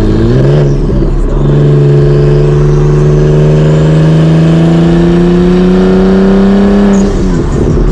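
Single-turbo BMW 335i's N54 inline-six, exhausting through the hood, under acceleration. After a brief break about a second in, the engine note climbs steadily for about six seconds, then breaks off and drops near the end.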